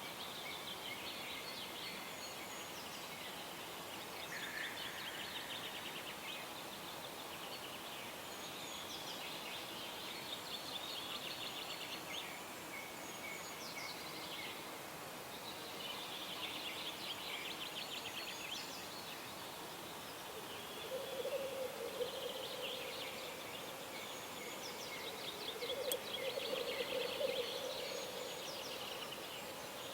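Several songbirds singing in a pre-sunrise dawn chorus: repeated high trilling songs throughout. A lower, bubbling call comes in twice in the second half and is the loudest sound, over a faint steady background hiss.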